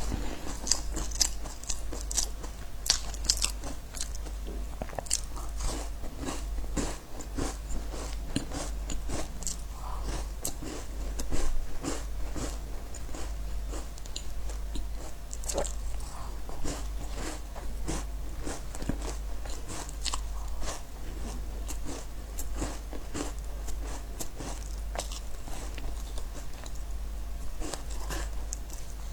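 Crisp biscuits being bitten and chewed: a continuous run of dry, irregular crunches and crackles, over a steady low hum.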